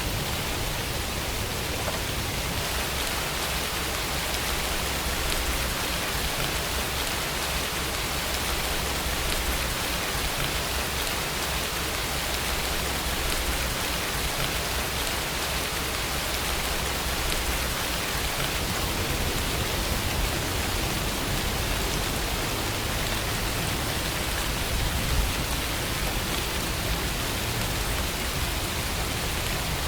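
Steady rainfall, an even hiss of rain falling on a surface with no let-up. One brief louder tap about 25 seconds in.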